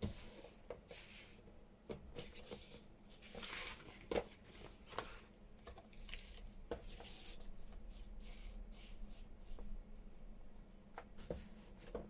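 Paper pages being handled while they are trimmed to size: rustling and sliding of sheets, with scattered light clicks and taps.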